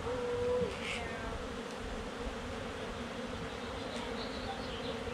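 Honey bee swarm buzzing in the air: a steady hum of many bees, with one bee buzzing louder and close by near the start.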